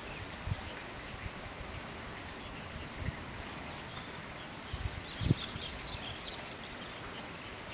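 Steady outdoor background noise with a brief cluster of high bird chirps about five seconds in, and a few short low thumps.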